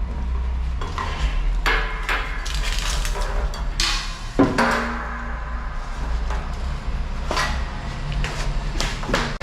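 Ratchet strap hardware being handled: irregular metallic clinks, rattles and knocks of the ratchet and hooks, with one sharper knock about four seconds in.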